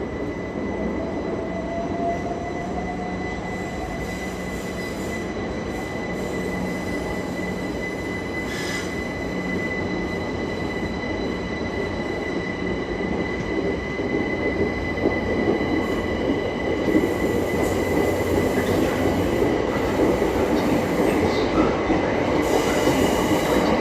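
Train moving past on the rails, with a steady high-pitched wheel squeal and a whine rising in pitch over the first few seconds. The rumble of wheels on track grows louder in the second half.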